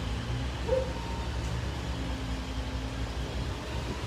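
Steady low engine drone from heavy equipment running, with a brief high chirp less than a second in.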